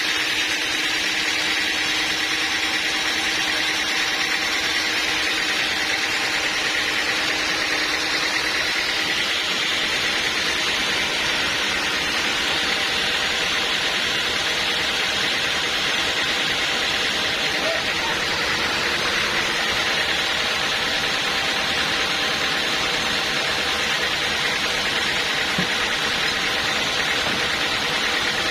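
Sawmill machinery running steadily: a loud, even, unbroken mechanical noise with no stops or changes.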